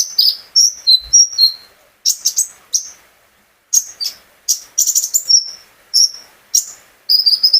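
Konin songbird singing: quick strings of short, sharp, high chirps and whistled notes, some sliding, with a brief pause about three seconds in before the song resumes.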